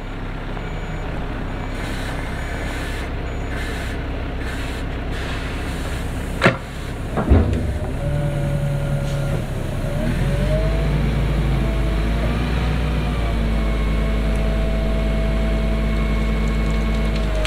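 Cat 307 excavator running with a steady engine note and hydraulic whine. Two sharp knocks come about six and seven seconds in, and the engine goes deeper and louder about ten seconds in, as under load.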